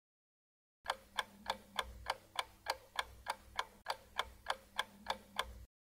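Clock-ticking countdown timer sound effect: even ticks at about three a second, starting about a second in and stopping shortly before the end.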